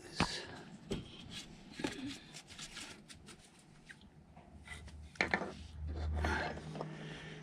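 Scattered light clicks and knocks of metal scooter variator parts being handled and slid onto the crankshaft, with a short low hum in the second half.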